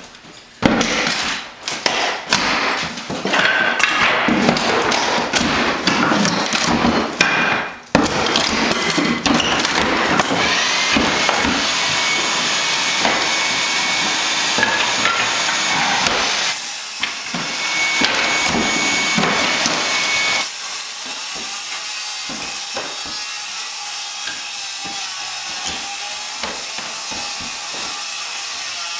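Old hardwood flooring being torn out: a run of hammer blows and knocks on the wood for the first several seconds, then a long stretch of continuous sawing through the boards.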